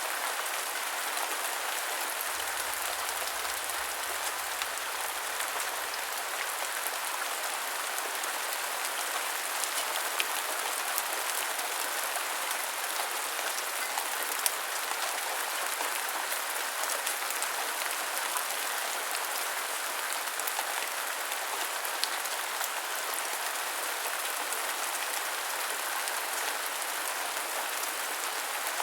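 Steady heavy rain, an even hiss of falling rain with scattered louder single drops.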